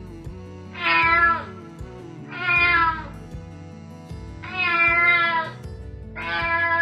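A kitten meowing four times, each meow lasting about half a second to a second, with a pause between them, over steady background music.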